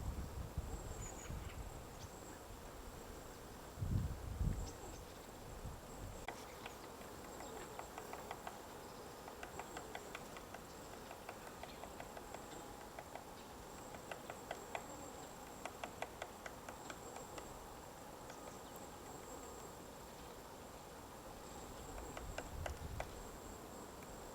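White-backed woodpecker chiselling out a nest hole in a tree: runs of quick, light taps on wood broken by pauses. A low thump comes about four seconds in, and a faint steady high whine sits underneath.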